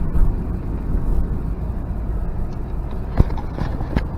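Steady low engine and road rumble inside the cabin of a 1990 Nissan 300ZX twin turbo on the move, its 3.0-litre V6 still warming up. Two short sharp knocks about three and four seconds in.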